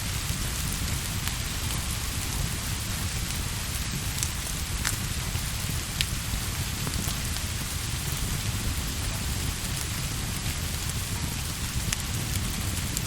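Steady rain, an even hiss with a low rumble underneath, and a few sharp clicks standing out, the clearest about five and six seconds in.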